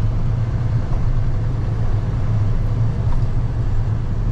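Box truck engine pulling under throttle, heard from inside the cab: a steady low drone with road noise.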